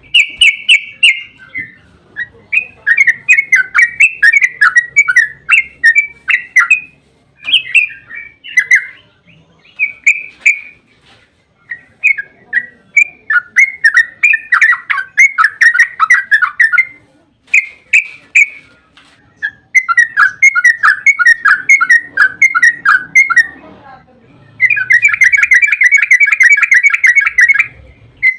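Yellow-vented bulbul (trucukan) singing loud runs of quick, bubbling notes in phrases with short pauses, then a long, fast, unbroken rattle of notes near the end: the long 'ropel' song used as a lure to make other bulbuls answer.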